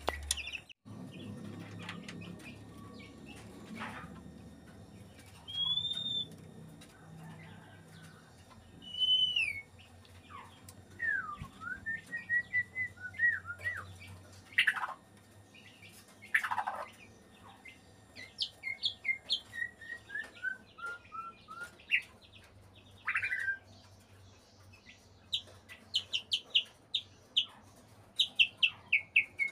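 White-rumped shama (murai batu) singing a varied song: clear single whistles, wavering runs of short notes, two loud sharp downward calls midway, and a fast series of short notes near the end. This song is taken as a sign that the bird is in breeding condition (birahi).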